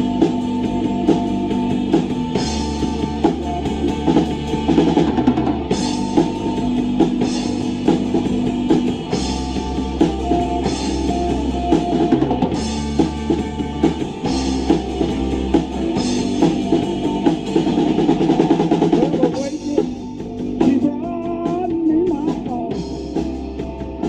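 A rock band playing an instrumental passage: full drum kit with bass drum, snare and cymbal hits over bass guitar notes and electric guitar. About twenty seconds in the cymbals thin out and a bending guitar line comes forward.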